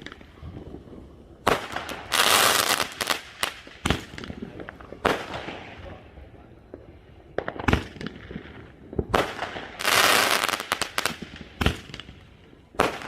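Fireworks going off: a string of sharp bangs a second or two apart, with two longer bursts of crackling hiss, one about two seconds in and one about ten seconds in.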